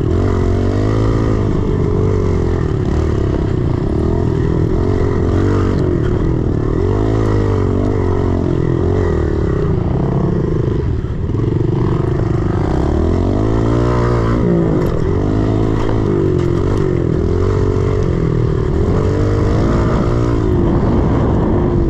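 110cc single-cylinder four-stroke pit bike engine being ridden hard, its pitch rising and falling over and over as the throttle is opened and closed. The revs drop briefly about eleven seconds in.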